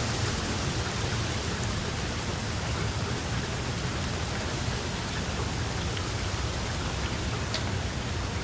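Steady rain falling, an even hiss with a low rumble underneath and a few distinct drops ticking now and then.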